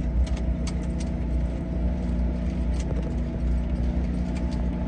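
Engine running at a steady speed, with a few faint light clicks on top.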